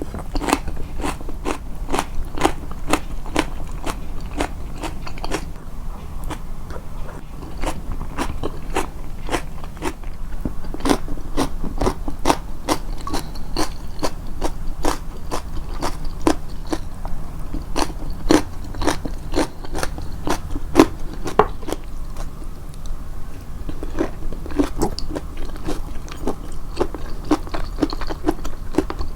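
Close-miked chewing of crunchy food, with sharp crunches coming about twice a second in a long run, edited to bring out the chewing.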